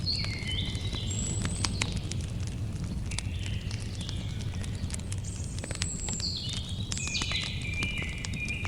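Campfire crackling, with scattered sharp pops over a low steady rumble. A bird sings short whistled phrases of stepped notes several times over it.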